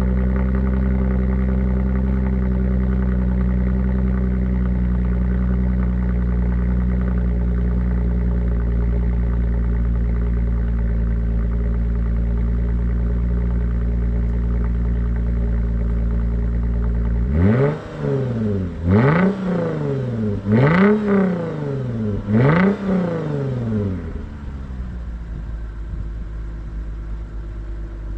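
Toyota Mark X 300G's V6 exhaust through a Ganador muffler made for a Crown and modified to fit. The engine runs steadily at first, is blipped four times in quick succession about two thirds of the way in, and then settles to a quieter idle.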